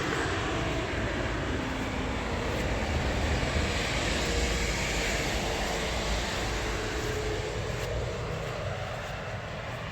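Road vehicle passing at speed: a steady rush of tyres and engine with a low rumble that swells about four seconds in and fades toward the end.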